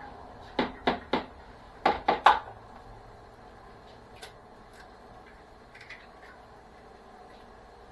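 Kitchenware knocking: two quick runs of three sharp knocks about a second apart, then a few faint clicks.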